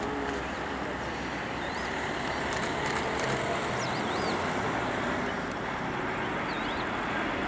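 Boeing 737-800's CFM56 turbofan engines running at taxi idle: a steady, even rush of jet noise.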